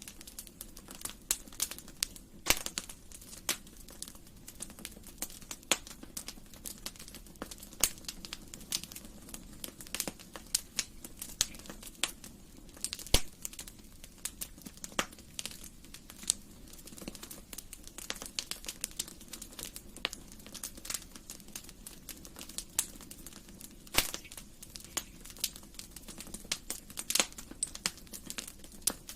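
Wood fire burning in a fireplace, crackling with frequent irregular sharp pops over a soft low rumble of the flames.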